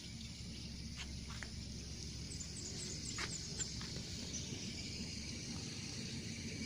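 Quiet outdoor background noise, with a quick run of faint, short, high chirps a little after two seconds in and a few faint ticks.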